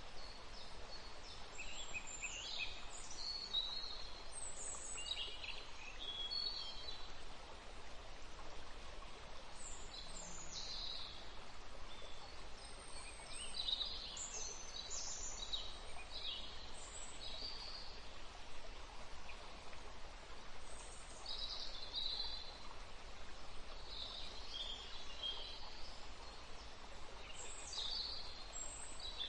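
Birds chirping on and off over a steady background hiss.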